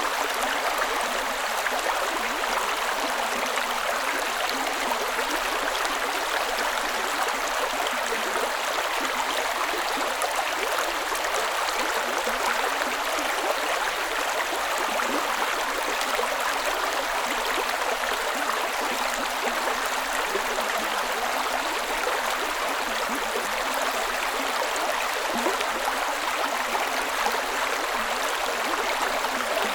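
Creek water running and cascading over rocks in a steady, unbroken rush, with fine splashing and gurgling.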